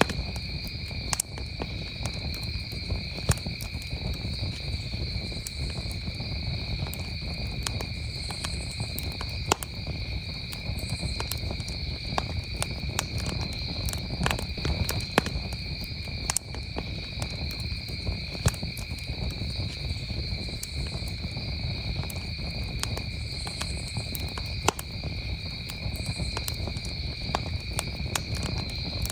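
Campfire crackling with scattered sharp pops, a few of them louder, over a steady, unbroken chorus of crickets chirping.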